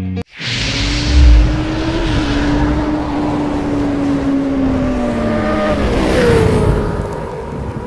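Motor vehicle engine running, its tone holding steady, then falling and rising again about six seconds in, over a rushing hiss, with a loud low thump about a second in.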